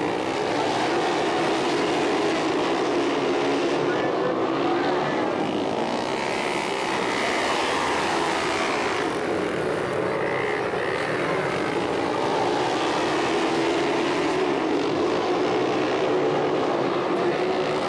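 Flat-track racing motorcycles running hard in a heat race, several engines together, their pitch rising and falling as they accelerate and pass.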